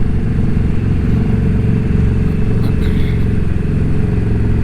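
Indian Scout Bobber's V-twin engine running at a steady cruise, a constant low engine drone with no revving.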